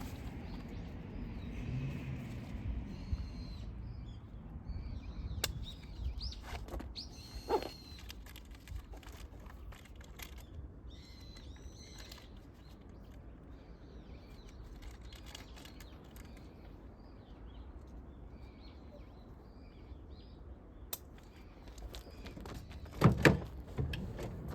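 Small birds chirping and calling on and off over a light outdoor background, with a loud double thump near the end.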